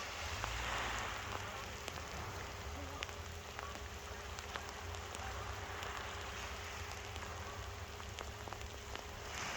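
Small waves washing onto the shore: a steady wash of water that swells about a second in, again around six seconds in and near the end, with faint ticks of splashing water and a low rumble underneath.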